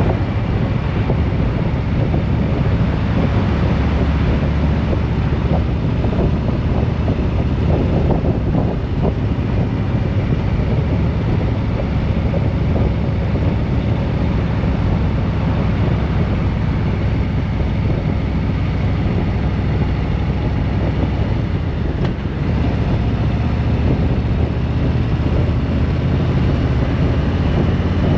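Steady wind rush on the microphone over engine and road noise from a vehicle on the move.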